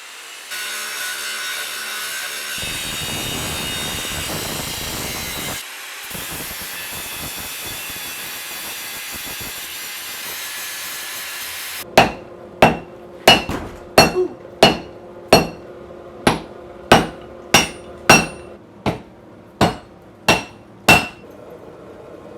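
A steady run of steel being cut for about twelve seconds, then rhythmic hammer blows on steel: about fifteen sharp, ringing strikes, roughly one and a half a second.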